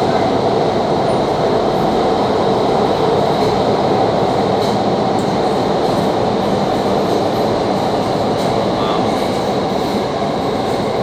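Doha Metro train running, a steady rumble with a thin, constant high whine over it.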